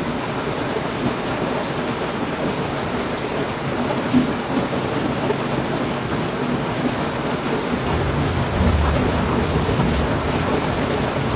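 Heavy rain pouring steadily, with a low rumble of thunder swelling about two-thirds of the way through.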